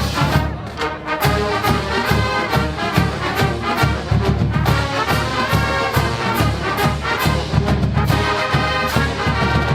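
College marching band playing: a brass section of trumpets and trombones over a steady drum beat of about two strokes a second.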